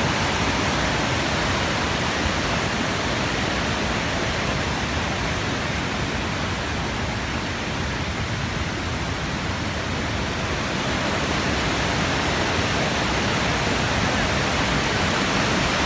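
Waterfall cascading steadily, a dense, even rush of falling water.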